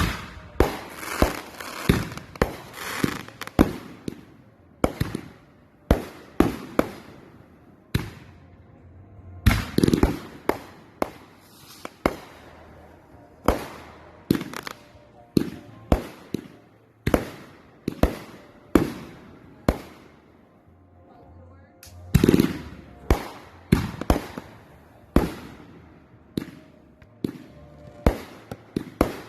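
Aerial fireworks bursting overhead: a steady barrage of sharp bangs, one or two a second, each followed by a short echo, with thicker crackling volleys near the start and again about two-thirds of the way through.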